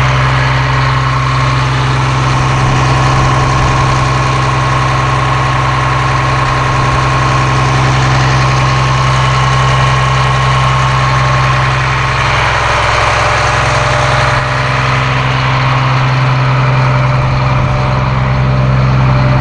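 Caterpillar C7 7.2-litre turbo diesel engine of a school bus idling steadily. A higher steady tone rides over the low hum and fades about twelve seconds in.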